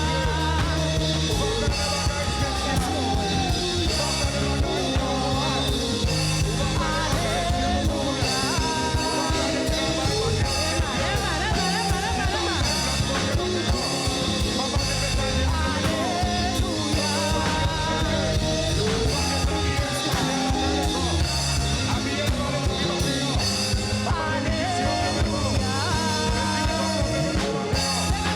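Church worship band playing a Haitian Creole worship song, with singing over a steady band beat.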